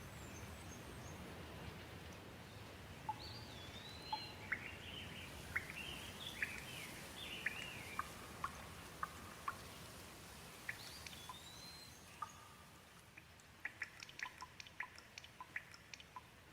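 Gentle rain falling as a steady soft hiss, with a bird calling in short chirping, sliding notes from about three to eight seconds in and again briefly near the middle. In the last few seconds the hiss softens and a quick run of sharp drips comes in.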